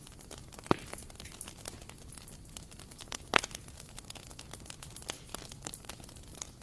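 Bonfire crackling, a dense run of small irregular snaps over a low rumble. Two louder pops stand out, one under a second in and one a little past three seconds in.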